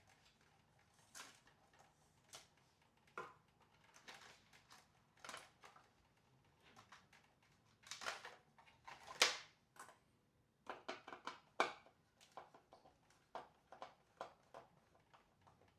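Scattered light clicks, taps and scrapes of small parts being handled, with a couple of louder knocks about eight and nine seconds in and a quick run of clicks a little later.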